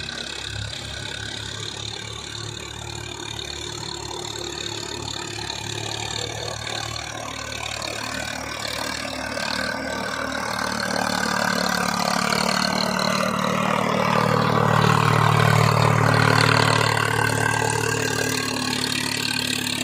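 Tractor diesel engine running steadily. It grows louder through the second half and peaks a few seconds before the end, then eases off slightly.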